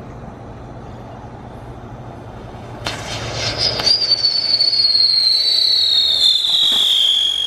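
Whistling firework: a sudden hiss about three seconds in, then a loud, shrill whistle that falls slowly in pitch for about four seconds.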